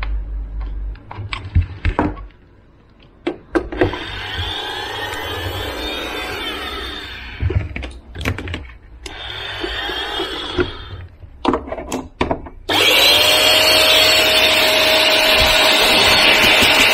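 Plastic clicks and knocks of vacuum parts being handled and fitted, with stretches of rustling scraping. About three-quarters of the way in, the Fantom Carbon DC500 stick vacuum's motor switches on and runs steadily with a whine.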